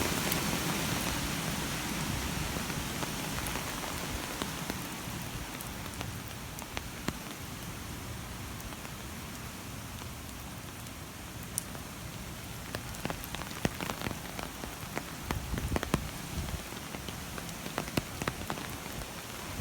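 Rain falling steadily, with sharp drip and drop ticks landing on hard surfaces, more of them in the second half.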